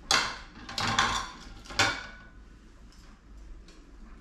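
Three short clattering knocks on a deep cast iron pot, each under a second apart, as chicken thighs are set down on the vegetables inside it.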